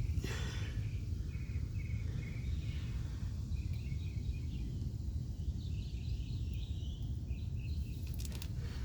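Outdoor ambience: a steady low rumble with faint, short, high chirps scattered through it.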